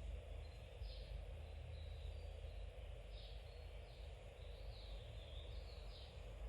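Faint high chirping, like a small bird, repeating in short calls every half second or so over a low steady hum.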